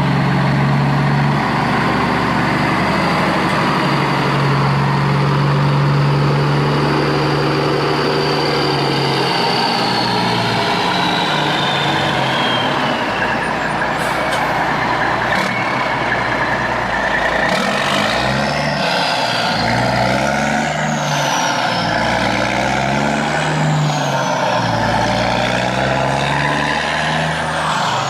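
A truck engine runs steadily, then revs up and down over and over in the second half. A high whine falls away about a third of the way through.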